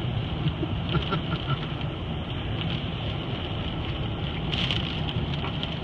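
Storm rain and wind on a car, heard from inside the cabin over the running engine and road noise: a steady rushing noise with a low rumble.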